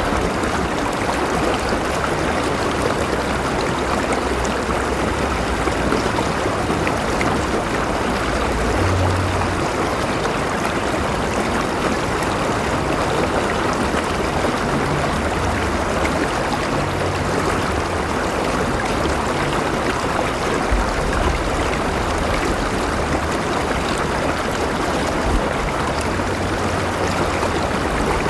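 River water flowing steadily over rocks, a continuous rushing and babbling with no break.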